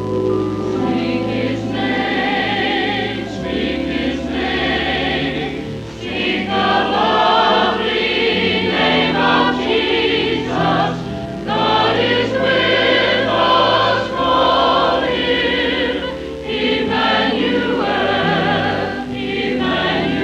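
Church choir singing a Christmas cantata in full voice, over sustained low accompaniment notes that shift every few seconds.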